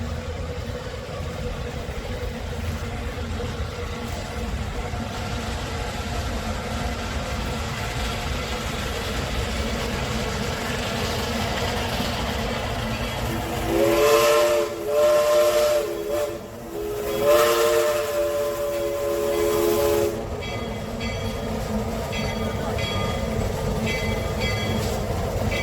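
A train's whistle blowing two long blasts, each a chord of several tones, over the steady rumble of the train running. Faint light clicking follows the blasts.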